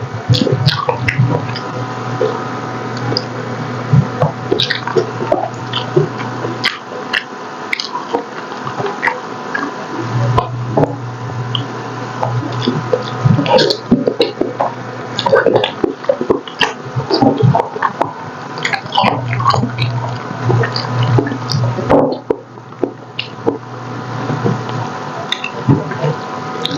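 Close-miked wet chewing and lip-smacking of braised pork hock, gelatinous and tender: a dense, irregular run of squishy mouth sounds, smacks and small clicks.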